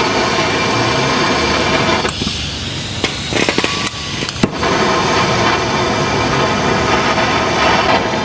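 Air impact wrench hammering on a seized brake caliper bolt, easing off about two seconds in with a few sharp clicks, then running hard again from about four and a half seconds.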